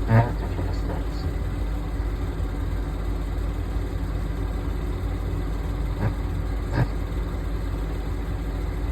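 1977 Jeep CJ7 engine idling steadily, warming up after a cold start, with a brief louder sound just after the start.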